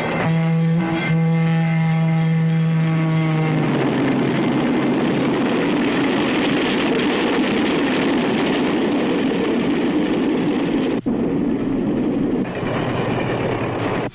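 Diesel locomotive's air horn sounding a steady chord, broken twice in its first second. About three and a half seconds in, the horn gives way to the loud, even rush of a freight train passing close by, which cuts off suddenly at the end.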